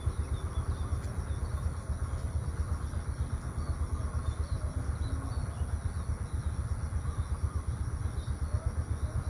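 Wind buffeting the microphone as a low, fluttering rumble throughout, with faint bird chirps high above it.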